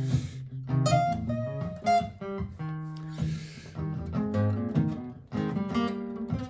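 Martin GPCPA4 acoustic guitar playing an improvised line of picked single notes over a looped chord part from a looper pedal. Two short swishes of noise cut in, at the start and about three seconds in.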